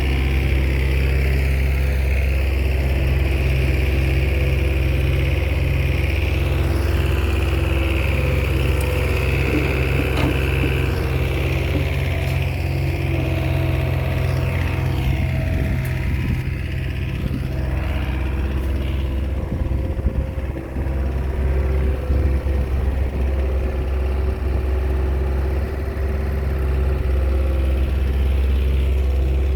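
Diesel engine of a small Komatsu crawler bulldozer running steadily, its note unsettled for a few seconds past the middle before evening out again.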